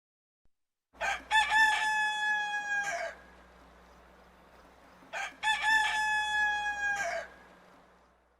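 Rooster crowing cock-a-doodle-doo twice, each crow a few short notes running into a long held note that drops at the end.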